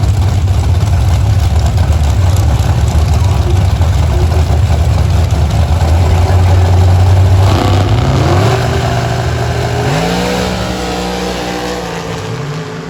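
Drag car engine at the strip: a loud, low, steady rumble for about seven seconds, then revs rising twice through gear changes as it pulls away, slowly fading toward the end.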